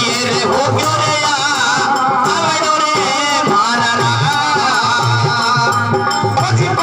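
Live folk song: male singing with instrumental accompaniment over a low drum beat that repeats about once a second.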